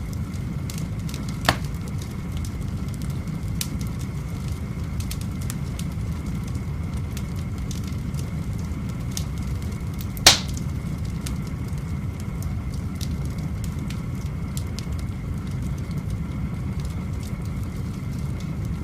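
Wood fire burning in a cobblestone fireplace: a steady low rush with scattered small crackles, and two sharp loud pops, about a second and a half in and again about ten seconds in.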